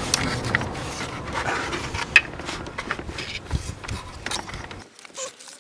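Scattered clicks, knocks and rubbing of plastic engine-bay parts and clips being handled and pushed into place, over a low background rumble that stops abruptly near the end.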